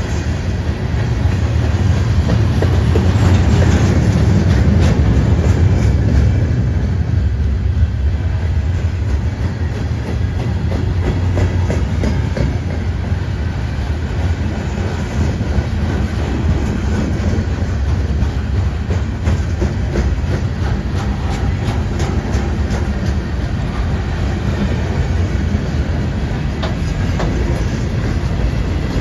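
A train rolling past with a continuous heavy rumble and the clatter of its wheels over the rails, loudest a few seconds in.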